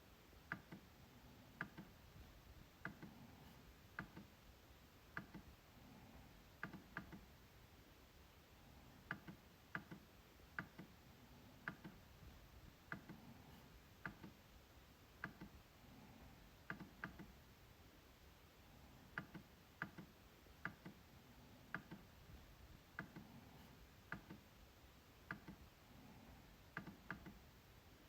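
MacBook trackpad being clicked: sharp clicks at an uneven pace, roughly one to two a second, now and then two in quick succession.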